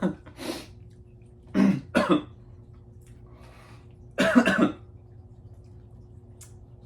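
A man coughing and clearing his throat in short harsh bursts: a quick one at the start, a close pair about a second and a half in, and the loudest about four seconds in. It is his reaction to the burn of a chocolate bar made with Carolina Reaper pepper.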